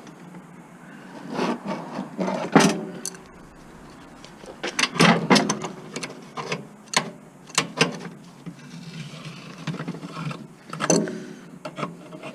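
Irregular metal clinks and knocks of a socket and table-saw parts being handled as a rusted nut is worked off the saw's aluminium base.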